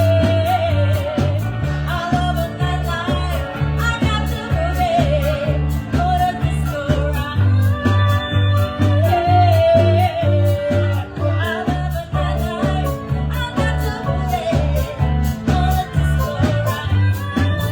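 A live band playing a song: a singer holds a wavering melody over a bass line that pulses in an even beat.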